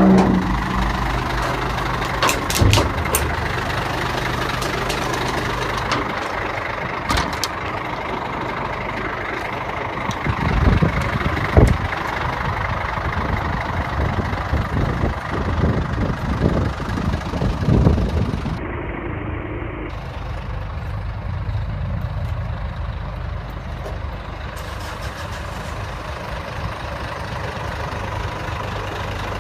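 Scania 114 truck's diesel engine idling steadily, with a run of knocks and clunks in the middle and a few sharp clicks early on.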